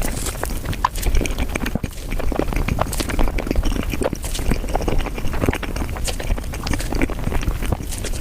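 Close-miked chewing and mouth sounds of someone eating, played back at five times speed, so the wet smacks and clicks run together into a rapid, continuous patter.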